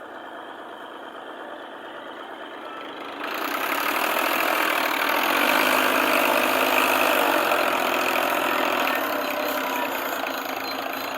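Tractor engine running. It grows louder about three seconds in and eases off near the end.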